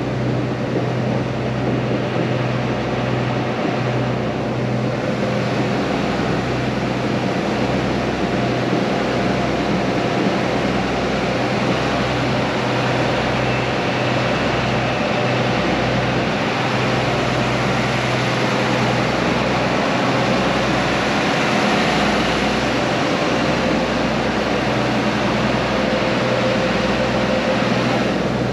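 Passenger ferry's engine running steadily, a constant low hum with a pulsing rumble beneath and an even rush of noise over it.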